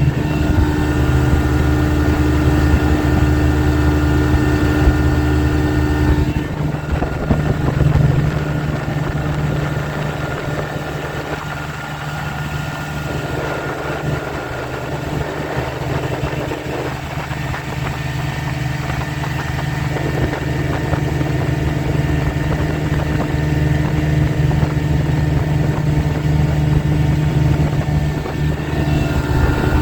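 A 1984 Johnson 25 hp two-cylinder two-stroke outboard motor running under way with a steady note. About six seconds in the note changes and the level drops, lowest around twelve seconds. It then builds back gradually, and the earlier steady note returns near the end.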